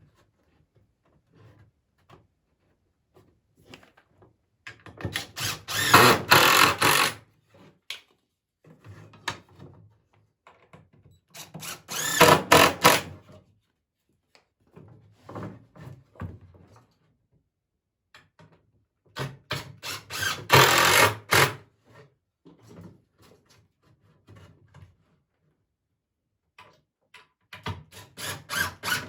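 A power drill driving wood screws into dry poplar boards, in four separate bursts of a second or two each, with faint handling sounds between them.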